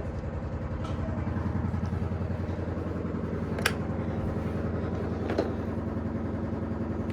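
Bissell PowerForce Helix upright vacuum running steadily on a rug, its motor hum carrying a fast low pulsing, with two sharp ticks about halfway through.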